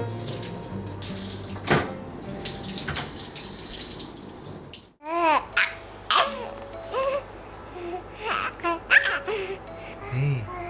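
Water running and splashing in a bathtub. After an abrupt cut about five seconds in, a three-month-old baby coos and babbles in short rising-and-falling calls over light background music.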